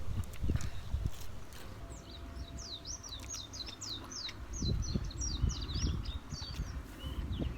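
A small bird sings a quick, chattering run of high chirping notes lasting about four seconds, starting about two seconds in. Beneath it are low, dull thumps and rumbling close to the microphone.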